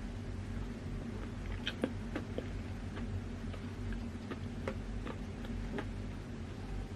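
Close-up chewing of chocolate cupcake: scattered soft wet mouth clicks and smacks, starting about a second and a half in, over a steady low hum.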